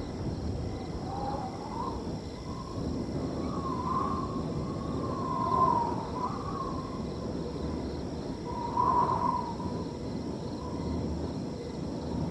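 Wind blowing through a field: a steady low rush with a long wavering whistling moan that rises and falls, swelling loudest near the middle and again about three quarters through, over faint steady cricket trills.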